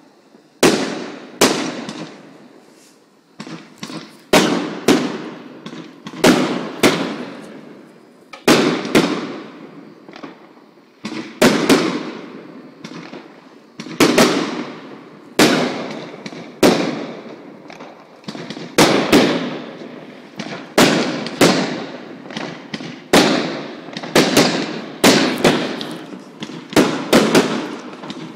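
Big aerial firework shells going off in a rapid run, one loud bang about every second, each trailing off in a long echoing decay.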